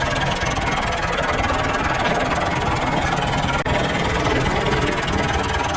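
A steady, loud running noise from an engine or heavy workshop machinery, with a brief dropout about three and a half seconds in.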